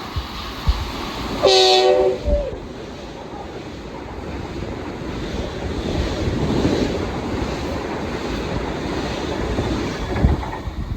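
Long Island Rail Road train sounding one short horn blast, a chord of several notes, about a second and a half in. Then its wheels run past on the tracks, the rumble building to a peak in the middle and staying loud.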